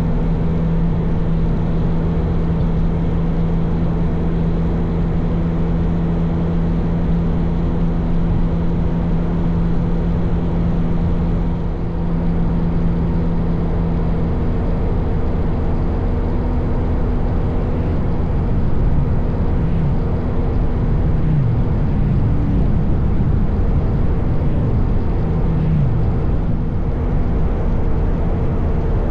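Motorcycle engine running at cruising speed under heavy wind and road noise. A steady engine note holds for about the first half, then its pitch rises and falls several times as the throttle changes.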